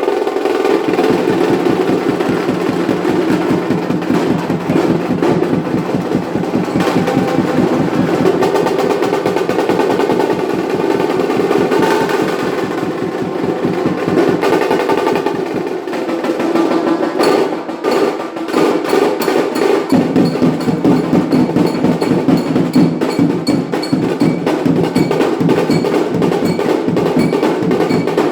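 Indian wedding band (band baaja) playing, with rapid, dense drumming and snare rolls under a melody line. The deepest drum drops out for a few seconds past the middle and then comes back in.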